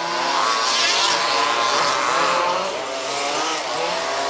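Several 1/5th-scale RC buggies racing, their small two-stroke petrol engines revving up and down. The overlapping engine notes rise and fall as the buggies accelerate and lift off around the track.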